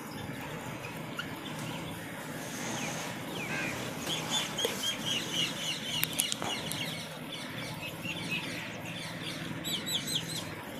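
Birds calling: a quick run of short, high chirps about four seconds in, and a few more near the end, over a faint steady hum.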